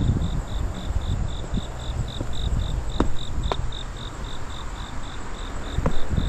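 An insect chirping in a steady rhythm, about three to four high pulses a second, over a low rumbling background noise, with a few sharp clicks about three seconds in and near the end.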